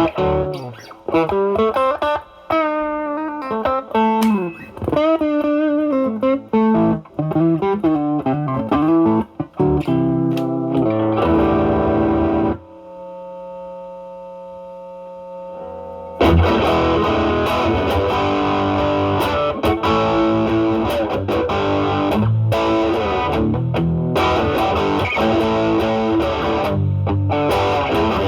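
Stratocaster electric guitar overdriven through an Ibanez Tube Screamer Mini pedal into a Marshall Valvestate amp's drive channel, playing lead lines with string bends. About halfway through, a held chord rings out more quietly. Then the playing comes back louder and more distorted, with the pedal's drive turned to maximum.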